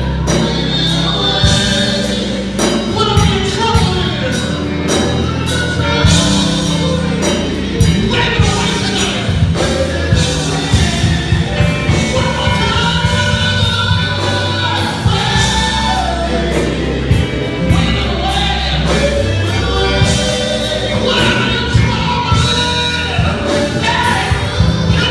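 Gospel music with choir singing over a steady beat and bass.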